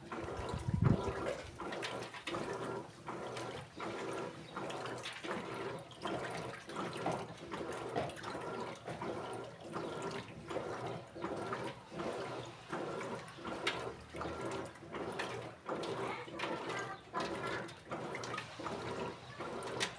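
Electrolux Essential Care 14 kg (LED14) top-load washing machine agitating a load, with water and clothes swishing back and forth in a steady rhythm. A low thump about a second in.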